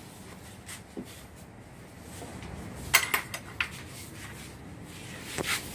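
A few sharp metallic clinks and taps of tools and small metal parts being handled: one about a second in, a quick cluster around three seconds in, and another pair near the end.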